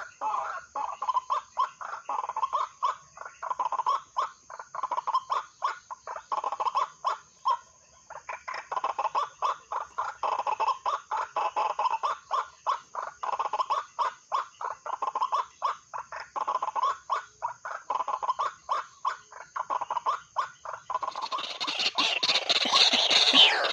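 White-breasted waterhen calls: quick, evenly repeated notes, about three or four a second, with a short break partway through. Near the end a louder, rougher stretch of noise rises over the calls.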